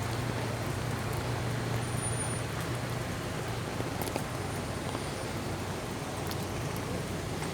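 Traffic on a rainy city street: a vehicle's engine running with a steady low hum that eases off about five seconds in, over the hiss of falling rain.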